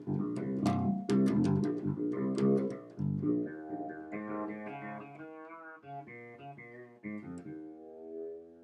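Six-string fretless bass guitar being played: a quick run of plucked notes, then slower notes left to ring. The last note is held and fades out slowly.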